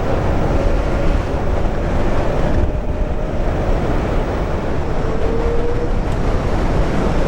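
Steady wind rush over the microphone of a moving electric motorcycle, with a faint motor whine that drifts in pitch.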